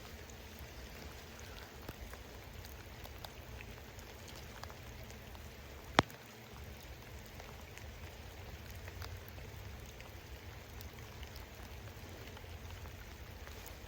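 Rain falling steadily, with scattered small drop ticks, and one sharp click about halfway through that is the loudest thing heard.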